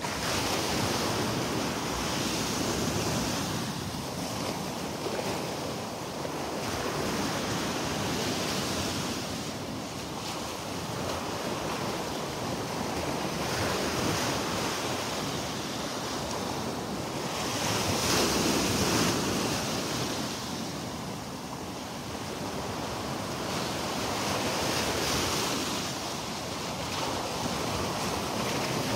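Surf washing onto a Gulf of Mexico beach, swelling and fading every few seconds, with wind rumbling on the microphone.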